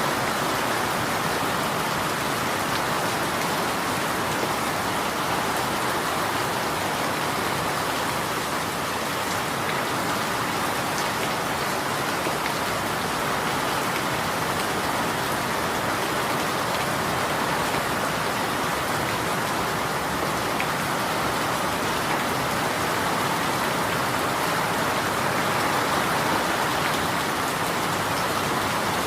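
Steady rain falling: an even, unbroken hiss of drops that holds the same level throughout.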